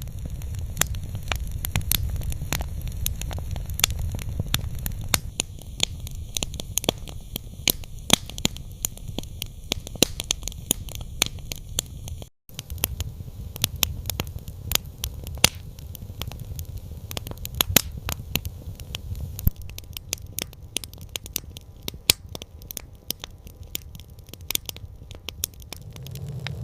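Campfire crackling: irregular sharp pops and snaps over a steady low rumble. The sound drops out for an instant about twelve seconds in.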